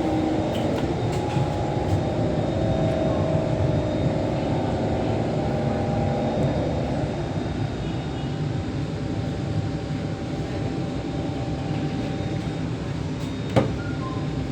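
Inside a Kawasaki C151 metro train carriage at Eunos: a steady rumble and hum of the train, with several held tones that fade out about halfway through. A single sharp knock comes near the end.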